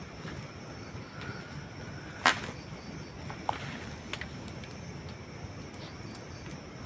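Campfire of dry wood logs crackling over a steady low rumble, with one loud sharp pop a little over two seconds in and a few smaller snaps about a second and two seconds later.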